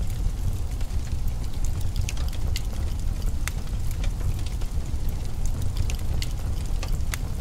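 Wood fire burning in a fireplace: irregular sharp crackles and pops, a few each second, over a steady low rumble.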